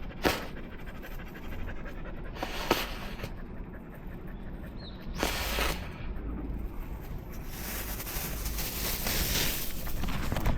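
A dog panting steadily, with three short sharp sounds standing out over it.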